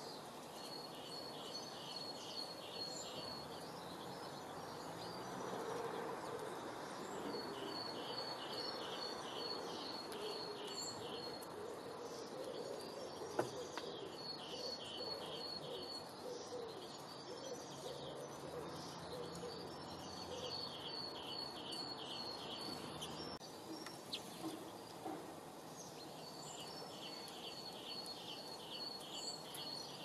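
A small songbird sings the same short phrase of rapid high notes, each phrase about two seconds long, repeated every five or six seconds over a steady background hiss of outdoor ambience. There is one sharp click near the middle.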